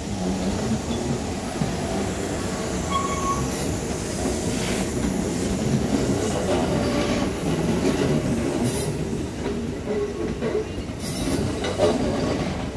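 Kintetsu electric train cars rolling past, steel wheels rumbling steadily on the rails. Three brief, sharp high-pitched noises come from the wheels and rails.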